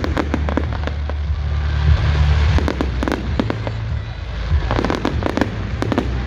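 Display fireworks going off in quick clusters of sharp bangs and crackles: a burst right at the start, another around the middle, and a denser run in the last couple of seconds.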